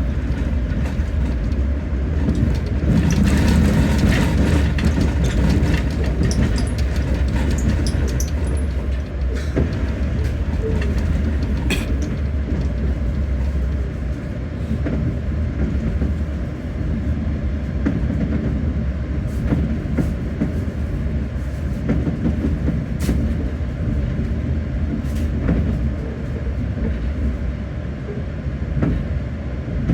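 Passenger train running, a steady low rumble with scattered clicks and knocks, and a brighter, louder stretch of rattle and squeal a few seconds in.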